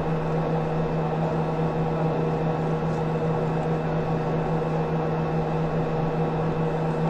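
Steady hum with a constant hiss from the broadcast's audio feed, unchanging throughout.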